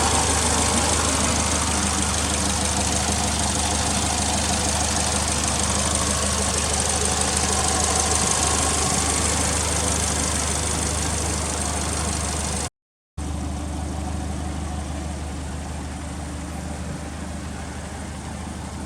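Subaru Impreza WRX STI (GRB) turbocharged 2.0-litre flat-four idling steadily. About 13 seconds in the sound cuts out for a moment, then the idle goes on a little quieter.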